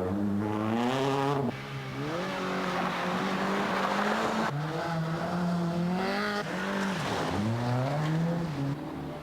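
Mk3 Golf GTI Group A rally car's engine driven hard on a special stage, its revs climbing and falling back several times as it changes gear.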